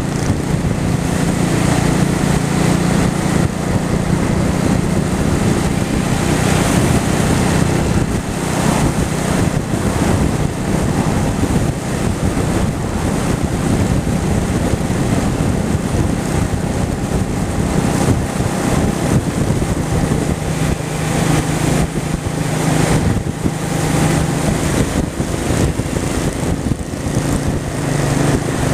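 Honda Shadow V-twin motorcycle engine running steadily at road speed under heavy wind noise on the microphone. The engine hum fades under the wind for a while mid-way and comes back near the end.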